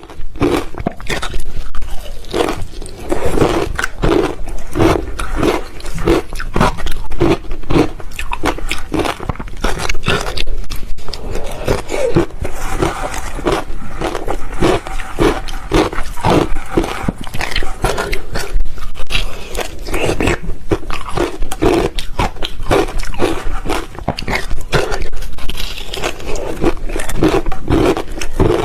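Ice being bitten and chewed close to the microphone: rapid, loud crunching and cracking, about two chews a second.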